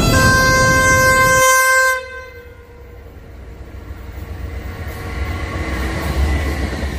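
Diesel locomotive horn blowing loud and steady over a heavy rumble, cutting off about two seconds in. Then a quieter rumble of railway wagons rolling past, swelling again towards the end.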